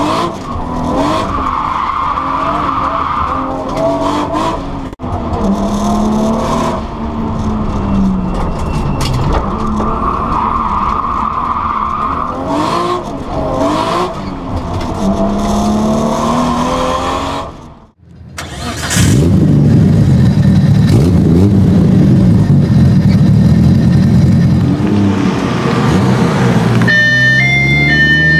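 Nissan Skyline GT-R R32's single-turbo RB26DETT straight-six revving up and down through corners, heard from inside the cabin, with the tyres squealing as the car slides. After a break of about a second, the engine is running at low revs, loud and close, for the last ten seconds.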